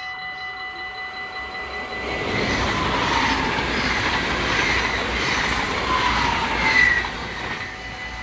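A train passes over the level crossing from about two seconds in until about seven seconds in, with brief wheel squeals. The crossing's warning bells ring steadily under it and carry on after it has gone.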